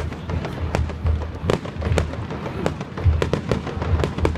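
Fireworks going off in quick succession: many sharp bangs and crackles, several a second, over a deep rumbling of booms.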